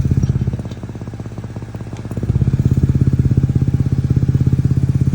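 BMW 630i exhaust idling with a steady pulsing note through an aftermarket switchable valve system. About half a second in, it turns much quieter at the same engine speed, then comes back to full volume about two seconds in, as the exhaust valves close and reopen.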